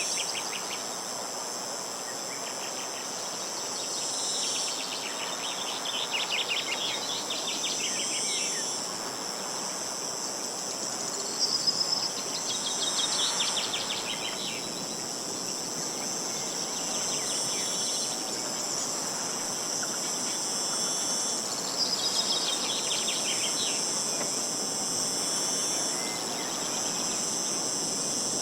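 Insects keep up a steady high-pitched buzz, while a small songbird sings short, fast trills that fall in pitch, repeated about every five to ten seconds, over a light background hiss.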